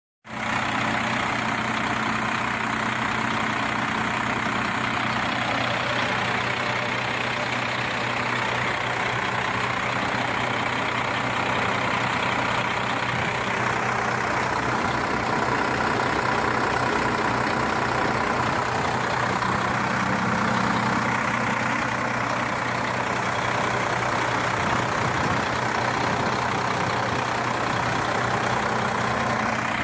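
Tadano GT550E truck crane's diesel engine idling steadily.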